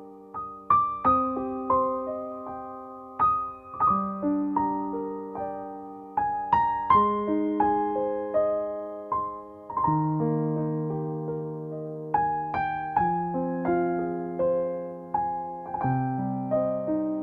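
Background piano music: slow, gentle notes and chords struck one after another, each ringing and fading away.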